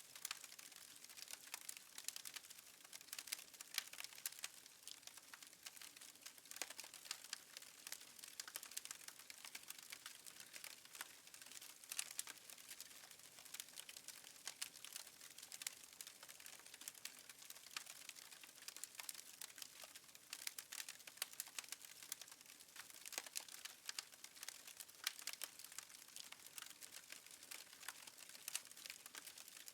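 Wood fire crackling faintly in a fireplace: a dense, irregular run of small sharp pops and snaps.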